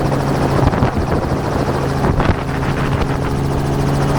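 Helicopter running steadily, a constant rotor and engine drone, with a couple of faint sharp knocks about two seconds in.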